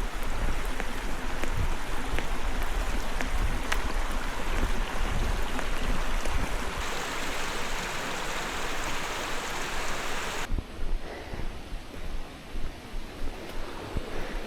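Steady rush of flowing water from a mountain stream or waterfall. About ten and a half seconds in, it cuts suddenly to a quieter, more uneven rush.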